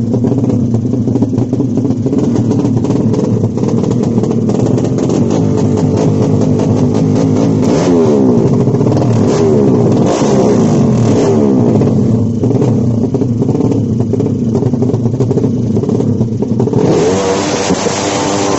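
Several drag-racing motorcycle engines revving together, their pitches rising and falling and crossing one another. Near the end a louder hissing rush joins in.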